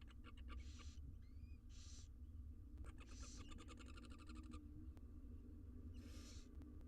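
Barn owl nestlings hissing in short bursts of about half a second, typical of their food-begging calls, with two fast runs of clicks, faint over a steady low hum.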